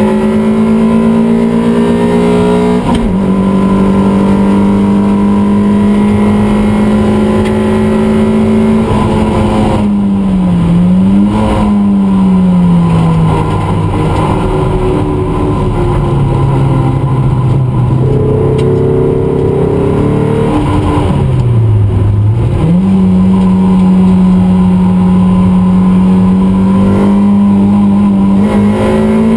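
Toyota MR2 race car's four-cylinder engine heard from inside the cabin under power. Its note holds steady, dips briefly about ten seconds in, runs at lower revs for several seconds, then dips once more and climbs back to hold a steady high note for the last third.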